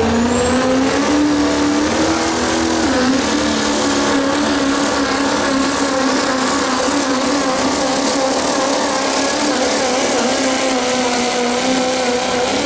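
Modified diesel pickup engine running at high revs under full load during a pull. Its pitch climbs in the first second, dips briefly about three seconds in, then holds nearly steady.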